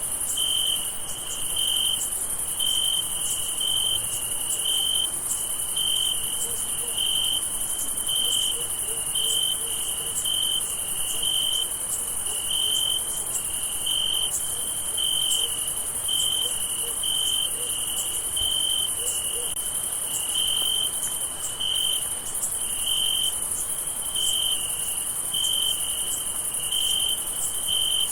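Crickets chirping in a night chorus: a steady, high-pitched trill with a lower chirp pulsing about one and a half times a second over it.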